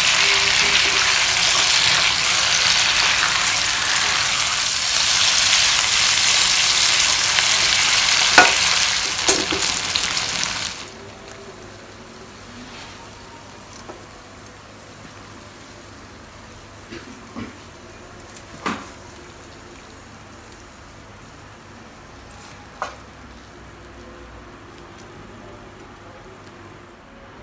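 Eggplant and eggs in chili balado sauce sizzling loudly in a nonstick wok while a silicone spatula stirs, with a couple of knocks of the spatula. The sizzling stops abruptly about ten seconds in, leaving a low hush with a few light clinks of the spatula against a plate.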